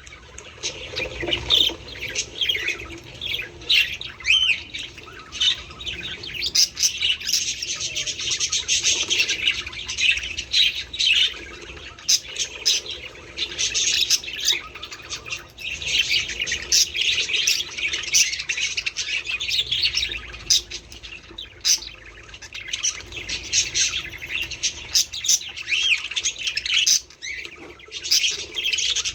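Budgerigars chattering and warbling, with many quick chirps overlapping.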